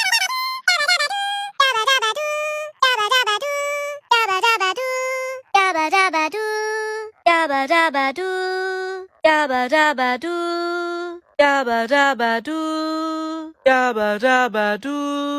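A short, pitch-shifted sung phrase repeated over and over. It starts high and chipmunk-like, and each repeat comes lower and slower, as if the sample is progressively slowed down.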